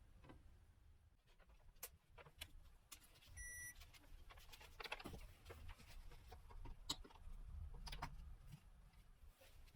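Faint scattered clicks and light knocks over a low rumble, with one short electronic beep about three and a half seconds in.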